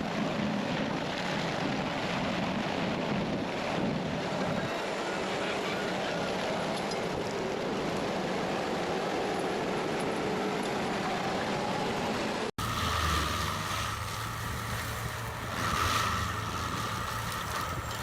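Heavy machinery running, a broad noisy rumble with wind on the microphone. About two-thirds of the way through it cuts abruptly to a different machine with a steady engine hum and whine.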